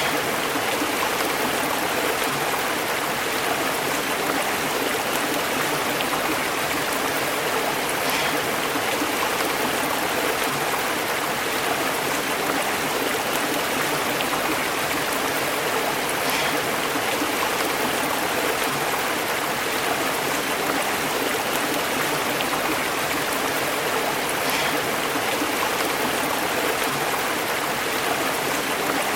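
Stream water flowing over rocks, a steady burbling and bubbling rush.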